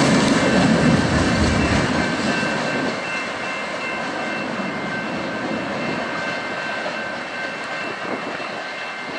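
Freight tank cars and covered hoppers rolling past on the rails. The low rumble of wheels on track is heavy for the first two seconds, then drops and carries on more quietly as the end of the train moves away. Thin, steady high ringing tones sound above it.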